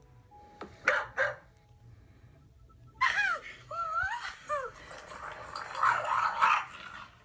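A dog coughing: two short sharp coughs about a second in, then a few short rising-and-falling cries, then a longer rough, hacking stretch near the end.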